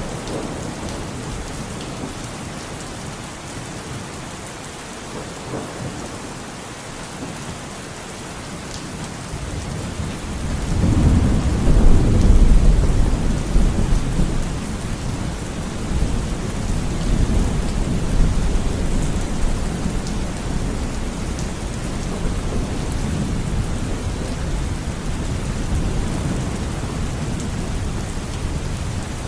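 Steady rain falling, with a deep roll of thunder swelling about ten seconds in and rumbling on more softly through the rest.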